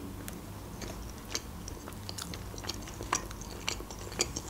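A person chewing a bite of mini pizza close to the microphone: a string of small, irregular mouth clicks and crunches.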